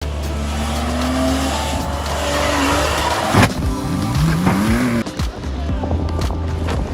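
Car tyres squealing in a skid, then a sharp crash impact about three and a half seconds in, followed by more squealing.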